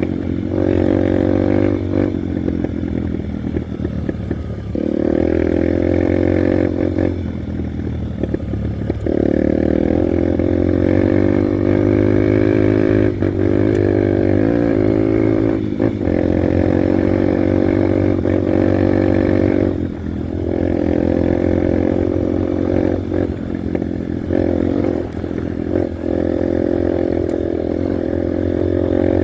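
Honda Bros 150 motorcycle's single-cylinder four-stroke engine running while riding, its pitch rising and falling as the throttle is opened and eased off, with brief dips every few seconds.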